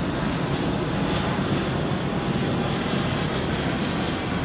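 Jet airliner taking off and climbing away, its engines at take-off power making a steady, even noise.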